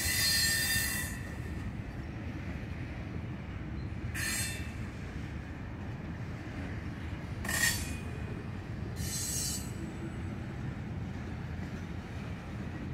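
A string of freight cars rolling through the yard: a steady low rumble of wheels on rail, broken four times by short, high-pitched wheel squeals, the longest one right at the start.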